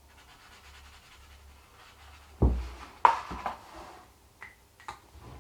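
Tabletop handling noise from working on a card craft kite: a single thump about two and a half seconds in, then a few short rustles and clicks.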